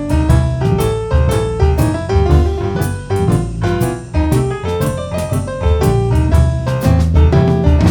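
Boogie-woogie piano played live: a fast run of notes over a heavy, driving bass line.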